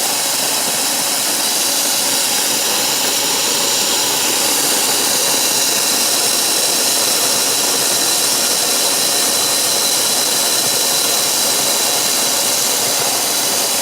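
OXO Brew conical burr coffee grinder running steadily, its 40 mm stainless steel burrs grinding coffee beans on a coarse French-press setting: an even, loud whirring grind with a faint high whine.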